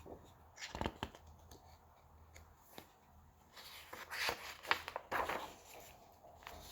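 Paper pages of a picture book being handled and turned, a short rustle near the start and a longer crackling rustle in the middle.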